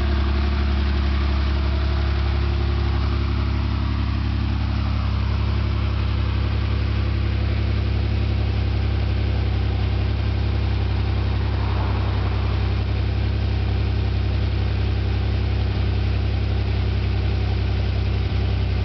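Porsche 930 Turbo's air-cooled turbocharged 3.3-litre flat-six idling steadily, with no revving.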